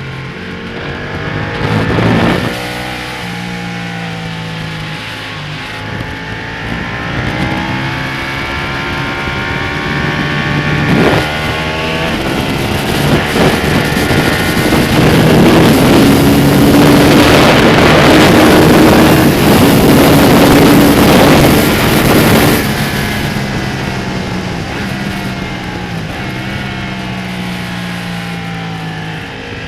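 Ducati Panigale V-twin sportbike engine heard onboard while riding a race track, the engine note rising and falling through the revs. From about 15 to 22 seconds in, it is at its loudest under hard throttle with heavy wind rush, then eases off.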